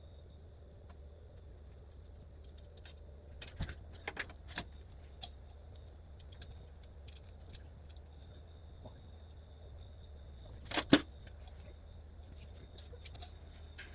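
Scattered small metallic clinks and knocks of tools and go-kart steering parts being handled during disassembly, with one sharper, louder clank about eleven seconds in.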